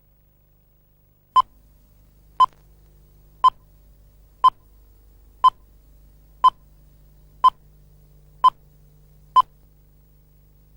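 Nine short, identical electronic beeps, one a second, over a faint steady hum.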